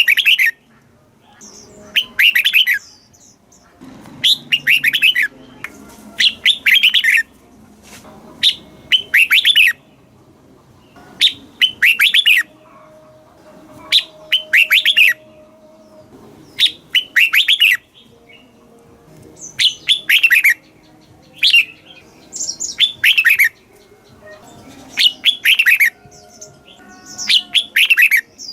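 Red-whiskered bulbul singing: short, bright warbled phrases repeated about every two seconds.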